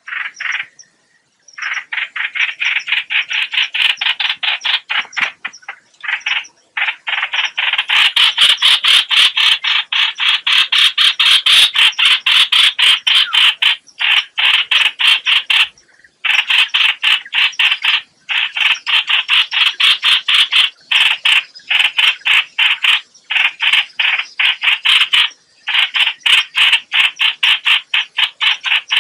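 Rapid, harsh, repeated call notes of the hoạch hoạch bird, several a second, in long runs broken by short pauses, used as a bird-trapping lure call.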